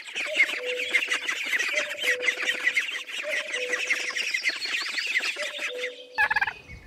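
A group of goslings peeping rapidly and continuously in high, thin chirps, with a short lower steady note coming back about every second and a half. Near the end the peeping stops and a brief harsher call is heard.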